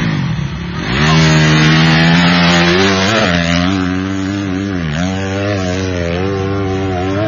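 Motorcycle engine revving hard. Its pitch climbs about a second in, holds high, then dips and climbs again several times as the throttle is eased and reopened.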